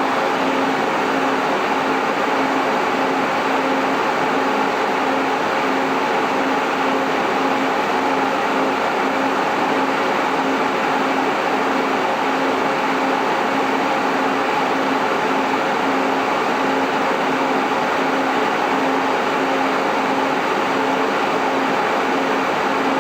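MJ Research PTC-225 DNA Engine Tetrad thermal cycler running: steady cooling-fan noise with a low hum that pulses about two or three times a second.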